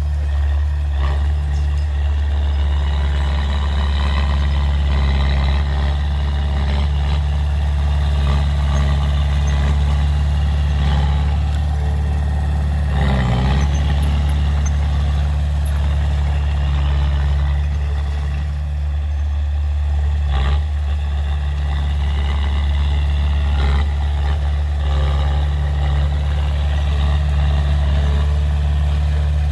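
Heavy diesel engine of earthmoving machinery running steadily at a low, even drone, with a couple of brief knocks partway through.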